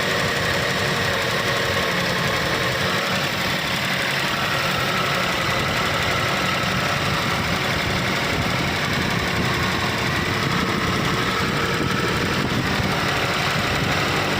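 Nissan car engine idling steadily while it has a misfire problem.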